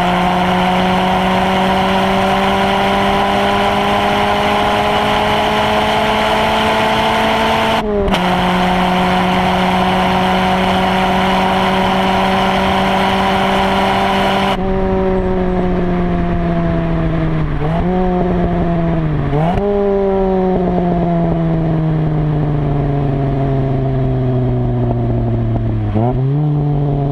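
Ginetta G40R's 2.0-litre Ford Duratec four-cylinder heard from inside the car, pulling hard at full throttle in a high gear, its pitch climbing slowly, with one upshift about eight seconds in. About halfway through the throttle is released and the engine note falls steadily as the car slows, broken by three short throttle blips on downshifts.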